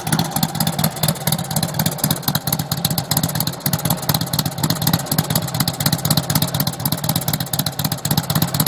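Harley-Davidson V-twin engine of a custom chopper idling, a steady rapid pulsing.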